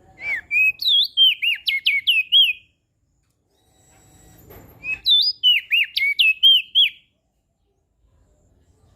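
Crested white-eye (opior jambul) singing two quick phrases of loud, clear whistled notes that sweep sharply up and down in pitch, the second phrase starting about two seconds after the first ends.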